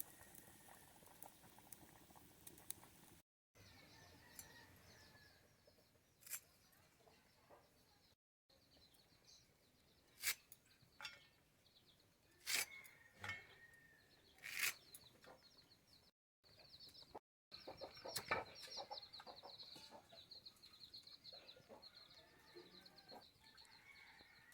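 Faint bird chirping in the background, in quick repeated runs, with a few sharp clicks and knocks scattered through.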